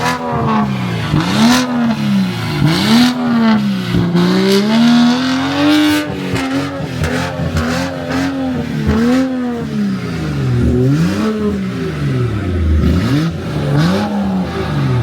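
Car engine revved hard over and over, its pitch climbing and dropping about every second and a half, with sharp cracks and pops from the exhaust in between.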